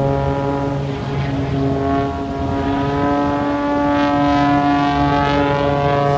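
Propeller airplane engine running loudly, its pitch shifting as it manoeuvres and then holding steady.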